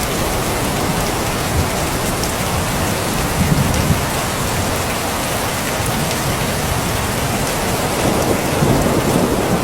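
Steady, loud rain falling, with low rumbling swells about three and a half seconds in and again near the end.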